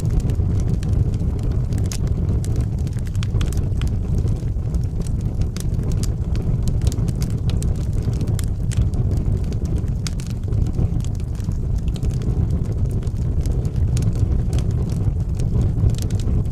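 Wood fire burning in a fireplace: a steady low rumble of flames with many small crackles and pops scattered through it.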